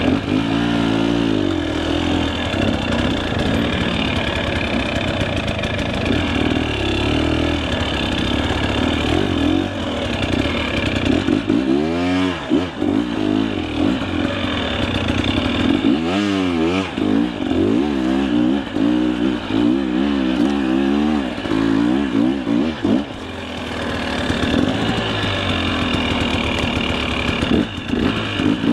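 KTM 300 EXC two-stroke dirt bike engine revving up and down hard on a rough climb, its pitch rising and falling over and over, with quick sharp revs about twelve seconds in and again from about sixteen to twenty-one seconds.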